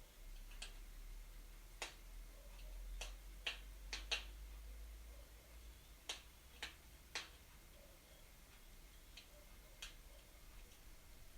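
Wood fire in a fireplace crackling, with irregular sharp pops and snaps that come thickest around the middle, over a faint low hum.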